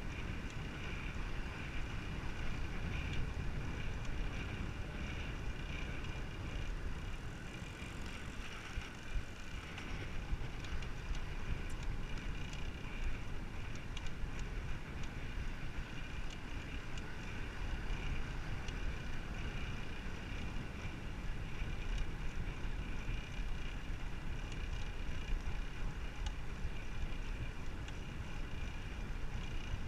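Wind buffeting the microphone of a moving bicycle, a steady low rumble, with a faint steady high hum under it.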